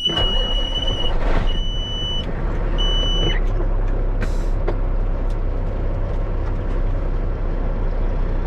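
Dump truck's diesel engine running steadily with a low rumble, while a high electronic warning beep sounds three times in the first few seconds. A short hiss of air about four seconds in.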